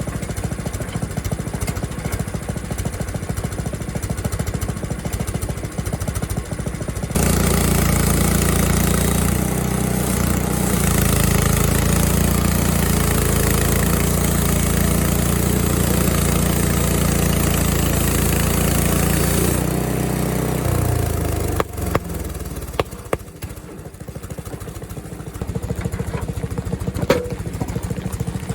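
Frontier OS23 portable bandsaw mill's small gas engine running at idle, then throttled up at about seven seconds as the band blade cuts lengthwise through a board for roughly thirteen seconds, then dropping back. A few sharp knocks follow in the quieter stretch before the engine sound picks up again near the end.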